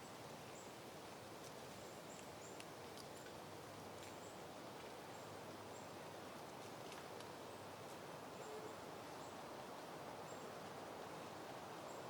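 Soft wind moving through blooming peonies: a faint, steady rustling hiss. Short, faint high chirps are scattered over it, most of them in the first half.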